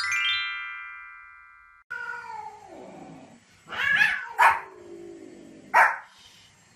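A short jingle of quickly falling, ringing chime notes that fade out, then a cat's long, falling yowls mixed with three sharp barks from a small white spitz-type dog about four, four and a half, and six seconds in.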